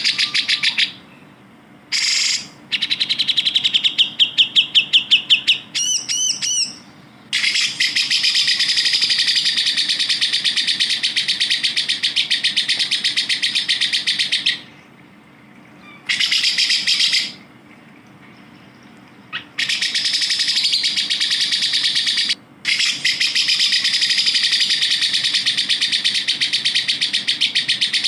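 Cucak jenggot (grey-cheeked bulbul) song: long, very fast buzzing trills lasting several seconds each, broken by short pauses, with a run of separate louder notes and a few looping whistles early on.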